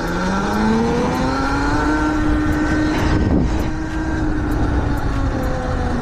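Electric motor of a converted Yamaha YZ85 dirt bike whining under way. The pitch climbs for about two seconds as it speeds up, holds, then eases down, over a steady rush of wind and road noise.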